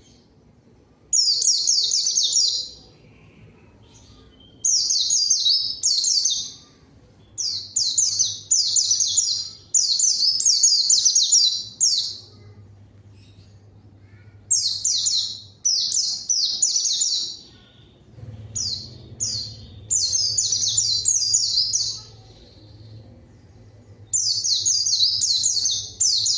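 White-eye (pleci) singing in repeated bursts of fast, high twittering song, each about one to two seconds long, with short pauses between. This is a vigorous 'gacor' rival-calling song, the kind used as a lure to set quiet white-eyes singing.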